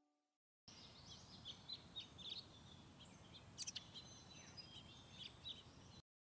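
Faint birdsong: many short, high chirps from several small birds over a low hiss, starting about half a second in and cutting off suddenly just before the end.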